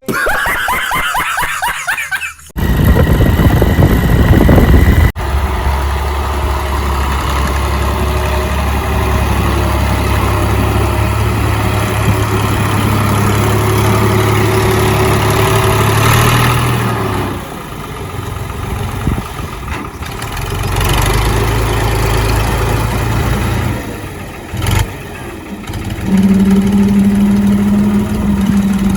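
A vehicle engine running, in several spliced stretches with abrupt cuts between them.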